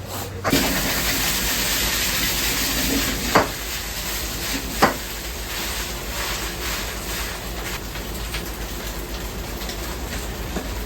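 Food frying in a wok with a steady sizzle that starts about half a second in, loudest for the first few seconds, and two sharp metal clanks about three and a half and five seconds in.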